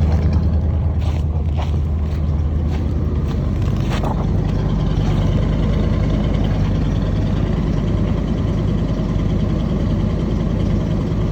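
1976 Chevrolet 454 big-block V8 idling steadily just after a cold start in the minus-30s, a low even rumble. A few short clicks sound over it in the first few seconds.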